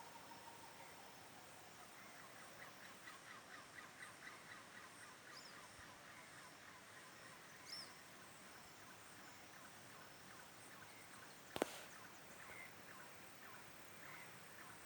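Faint, distant animal calls in forest: a rapid, evenly repeated series of call notes runs for several seconds, with a couple of short high bird chirps, and a single sharp click about three quarters of the way through.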